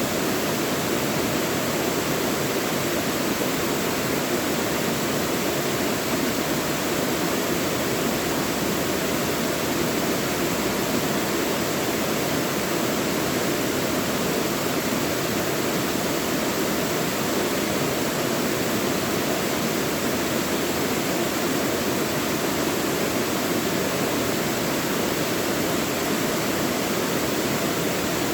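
Mountain valley stream flowing: a steady, even rush of water that does not change.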